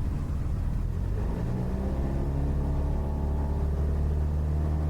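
Cessna 172's piston engine running up as power is applied for the takeoff roll of a touch-and-go. Its drone rises in pitch over about a second and then holds steady at full power.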